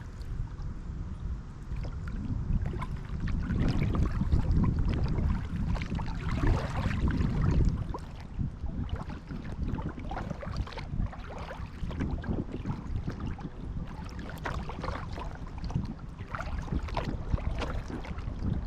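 Kayak paddling on calm water: paddle blades dipping and splashing, with water trickling off them, over a steady low rumble. The rumble is louder for a few seconds near the start.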